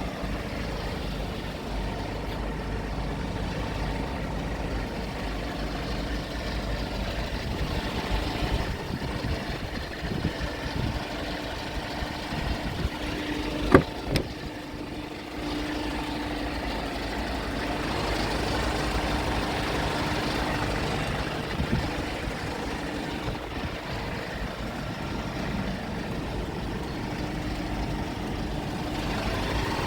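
Kia Bongo 3 truck's diesel engine idling steadily, with one sharp click or knock about halfway through.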